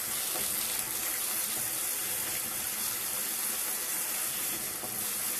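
Masala paste sizzling steadily in hot oil in a wok over high flame while a spatula stirs it.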